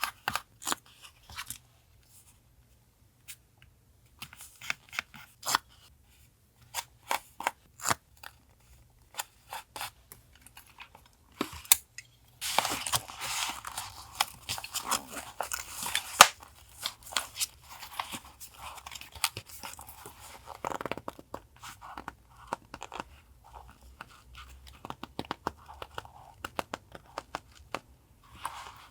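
Paper being worked by hand for collage journaling: about twelve seconds of separate sharp snips and clicks, then a long stretch of continuous crinkly paper rustling.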